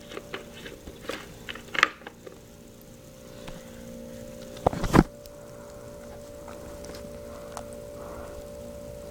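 Small metal clicks and knocks of a spark plug wrench working the spark plug out of a Weed Eater Featherlight FL25 string trimmer's engine, with one sharp knock just before five seconds in. A steady hum runs underneath.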